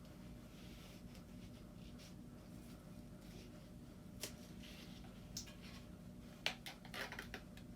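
Light clicks and rustling of a pleated furnace filter and its frame being handled, with a sharp click about six and a half seconds in and a quick run of small clicks just after, over a steady low hum.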